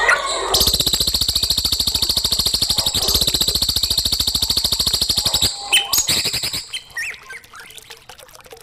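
Songbird singing a rapid, even trill that lasts about five seconds, followed by a few short chirps.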